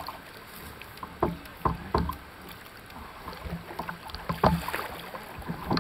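Canoe being paddled: a steady wash of water noise with a few sharp knocks, about five in all.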